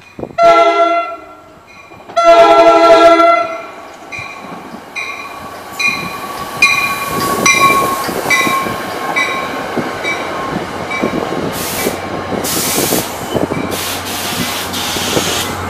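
NJ Transit commuter train sounding its horn in two blasts, a shorter one then a longer, louder one. A bell then dings about twice a second as the coaches roll past with a steady clatter of wheels on rail. Bursts of high hiss come near the end.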